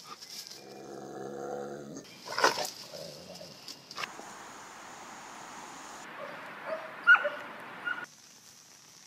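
Rottweiler giving a low, drawn-out growl for about a second and a half, followed by a sharp knock.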